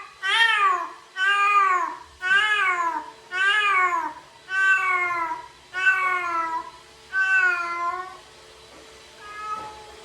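A cat meowing loudly and insistently, about one meow a second, seven calls that each rise and fall in pitch, then a fainter short meow near the end.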